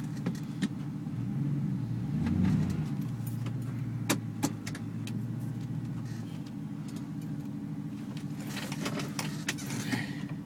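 Ford 5.4-litre V8 running steadily, heard from inside the cab while still warming up after a cold start at 21 °F, with a few sharp clicks and light rattles.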